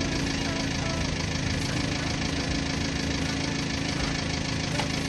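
Car engine idling steadily, a constant low hum with no change in speed.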